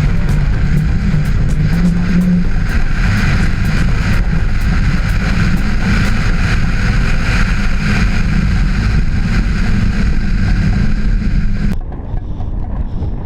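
Audi turbo rally car's engine running hard, with tyre noise and scattered sharp ticks. Near the end it cuts off suddenly to a quieter, windy hiss.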